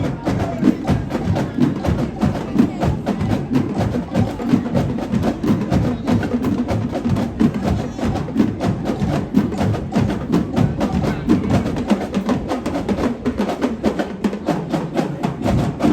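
A drum team playing a fast, driving drum cadence: many sharp stick strikes in a steady rhythm, with crisp clicky hits over the drums.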